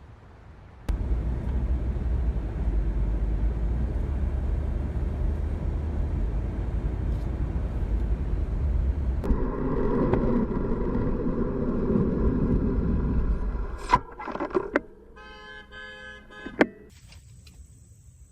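Car driving with loud road rumble, then a car horn held for about four seconds. Several sharp knocks follow, then a quick run of short beeps.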